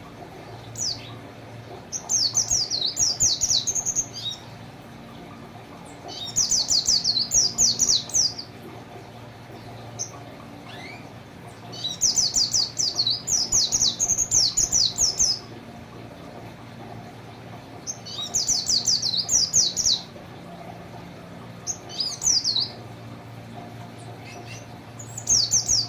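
Pleci (white-eye) singing in bursts of rapid, high, downward-sweeping notes, each phrase about two seconds long and coming every four to six seconds, with a few single short calls between. The song is a loud, full "gacor" song tutored with canary phrases (isian kenari).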